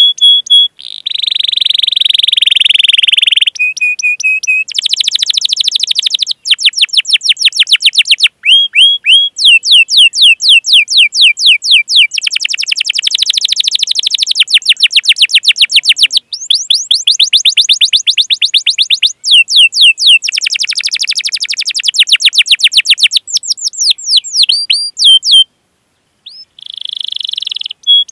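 Domestic canary singing a long, unbroken song: fast rolling runs of down-slurred 'cuit' notes, about eight a second, mixed with buzzy held notes and rattling trills. It breaks off briefly near the end, then starts again.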